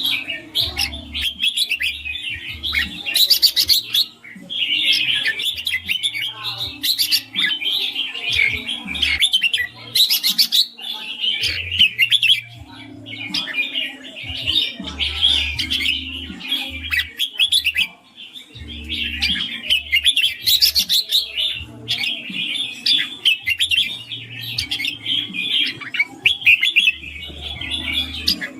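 Red-whiskered bulbul singing, a fast run of bright chirping phrases with short breaks between them.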